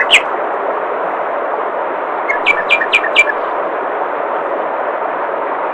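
Steady rush of flowing water, with a songbird calling over it: one note at the start, then a quick run of about five short falling notes about two and a half seconds in.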